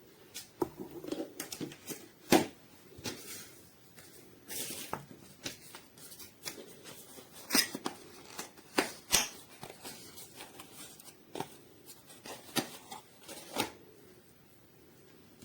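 Irregular clicks, taps and brief rustles of small objects being handled close to the microphone, with a sharper knock about two seconds in.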